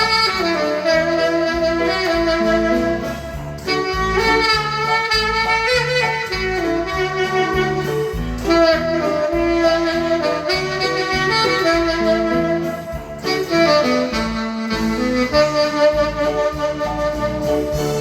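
Tenor saxophone playing a slow melody in long held notes over keyboard accompaniment.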